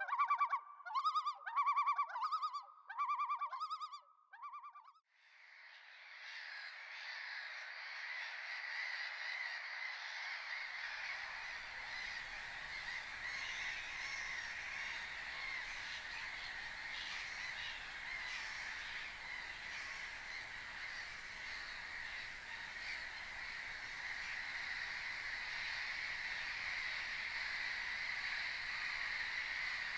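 A flock of flamingos calling. First comes a run of about six loud, goose-like honks. From about five seconds in, a dense, steady gabble of many birds calling together takes over.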